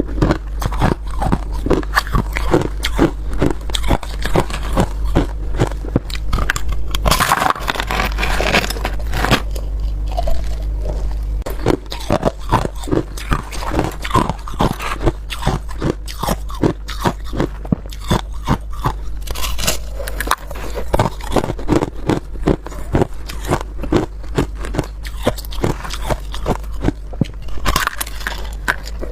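Ice being bitten and chewed close to the microphone: a fast run of sharp crunches, several a second, with a couple of bigger bites that crack louder.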